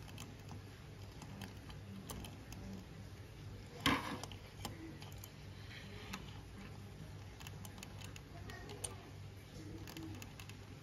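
Scattered small clicks and taps from handling a small diecast model and its packaging, with one louder knock about four seconds in, over a steady low hum.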